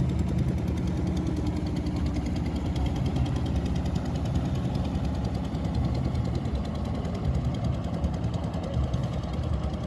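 A boat's engine running steadily, with a rapid, even chugging beat.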